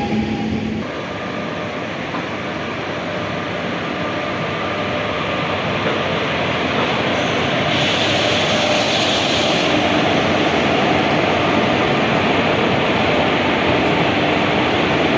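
Train running along the track: a steady rumble of rolling stock that grows a little louder, with a brief hiss about eight seconds in.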